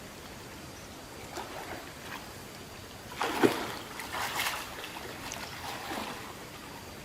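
Water splashing in a few irregular bursts, the loudest about three seconds in and another about a second later, over a faint steady hiss.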